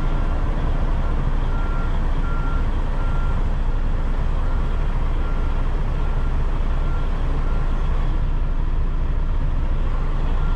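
Semi truck's diesel engine running at low speed while reversing, with its backup alarm beeping a single steady tone about every three-quarters of a second; the beeping stops about seven seconds in.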